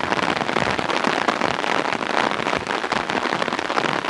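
Steady rain falling on an umbrella held overhead, a dense, even crackle of many small drop impacts.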